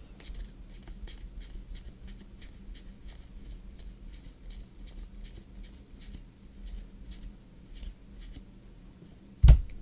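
Pen scratching on paper in short, irregular strokes. A single loud thump comes near the end.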